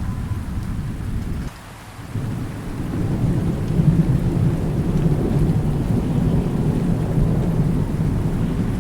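Rolling thunder rumbling over steady rain. The rumble drops away briefly about one and a half seconds in, then swells back up, loudest around four seconds in, and rolls on.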